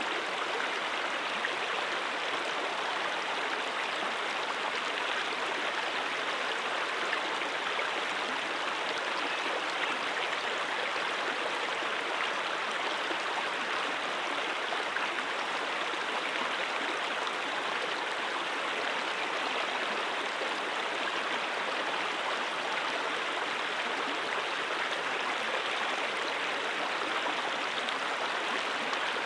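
Mountain stream water rushing and gurgling over rocks, a steady, unbroken flow.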